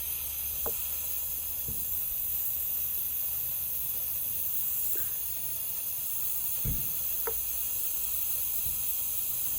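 A steady hiss with a few faint, light knocks of handling.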